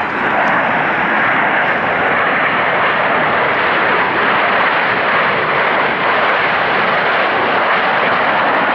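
Jet aircraft passing overhead: a loud, steady rush of engine noise with no change in pitch.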